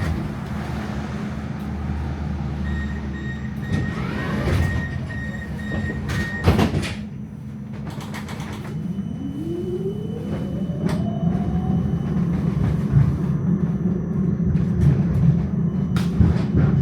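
Electric tram running on rails, heard from inside: a steady low rumble with a few sharp knocks. About nine seconds in, a whine rises in pitch as the tram picks up speed.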